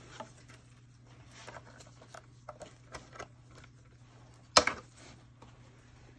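Pliers cutting MIG welding wire: faint clicks and scrapes of the wire being handled, then one sharp snap about four and a half seconds in as the wire is cut through.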